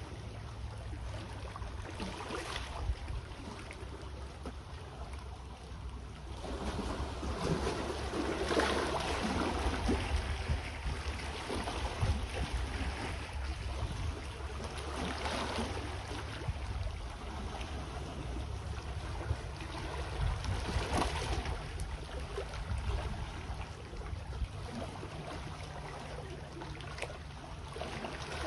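Small sea waves washing onto the shore, the wash swelling and fading every several seconds over a steady low rumble.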